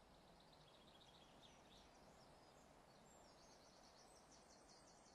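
Near silence of woodland, with faint distant birdsong: two short phrases of rapid repeated high notes.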